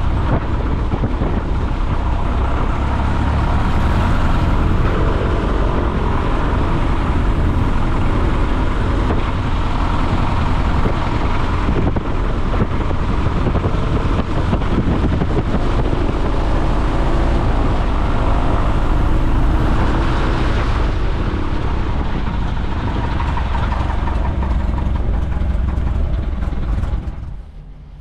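Piper J-3 Cub's engine and propeller running steadily, heard from inside the small cockpit with wind noise. The sound drops off suddenly about a second before the end.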